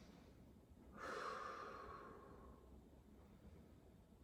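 A person's long audible breath out, starting about a second in and fading away.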